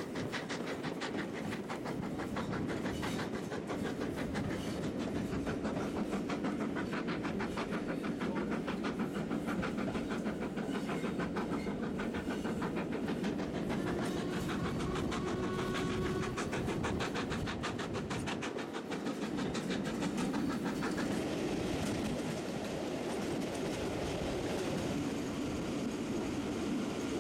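Steam-hauled passenger train running over the rails, heard from an open carriage window: a steady rumble with a fast, regular clatter of the wheels.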